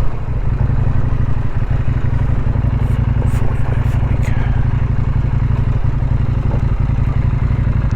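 Adventure motorcycle engine running steadily at a constant pace, a dense low drone with no change in revs.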